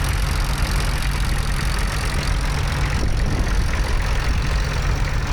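McCormick International B-450 tractor's diesel engine running steadily at low revs.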